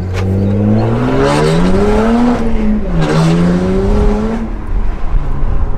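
BMW 135i's twin-turbo N54 3.0-litre straight-six with a straight-through exhaust, accelerating hard: the engine note rises, drops on an upshift about three seconds in, rises again, then falls back to a rumble as the throttle is lifted near the end.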